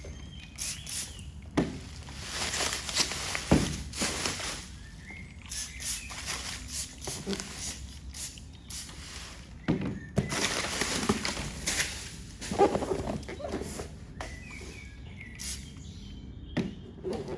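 Handling noises from a cardboard box: irregular rustles, scuffs and short hissing bursts, with a few sharp knocks.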